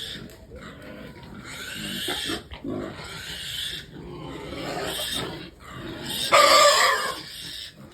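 Piglets squealing in repeated bursts about a second apart, with the loudest, longest squeal about six seconds in: distress squeals from a piglet that has got stuck.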